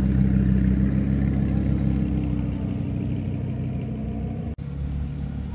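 Lamborghini Huracán's V10 engine running at low speed as the car rolls past and pulls away, its low note slowly fading. A brief dropout comes about four and a half seconds in, followed by a thin, steady high whine over a lower engine rumble.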